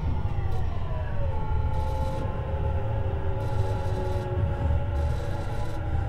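Tobu 50090 series electric train running, heard from under the car floor: a steady low rumble of wheels on rail, with the whine of the VVVF inverter and traction motors gliding down in pitch over the first second or so as the train slows, then holding steady.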